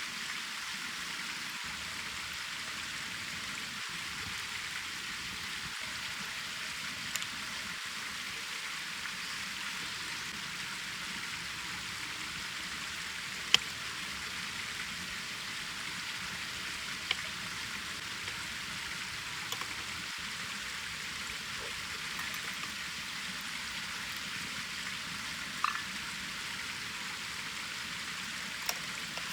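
Wood fire burning in a fire pit: a steady crackling hiss with a few sharp pops of burning wood, the loudest about halfway through.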